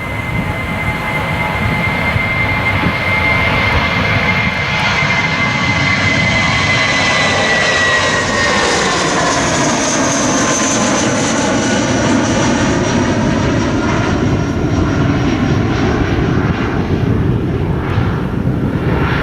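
Jet airliner at full takeoff thrust passing close by on its departure roll. A loud rumble carries a high engine whine that holds steady, then drops in pitch about eight seconds in as the aircraft goes past.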